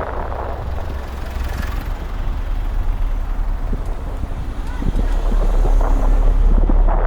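Street traffic heard from a moving bicycle: a steady noisy rumble of vehicles with wind on the microphone, getting louder about five seconds in.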